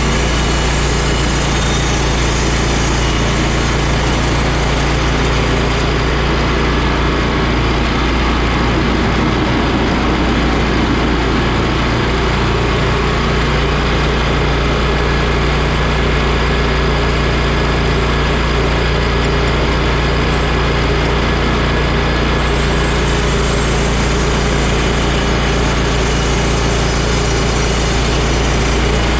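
Engine of a small sawmill running steadily without a break; its upper hiss thins from about six seconds in and comes back about twenty-two seconds in.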